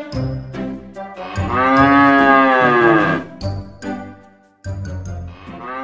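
Cows mooing: one long moo, the loudest sound, rising then falling in pitch about a second and a half in, and another starting near the end.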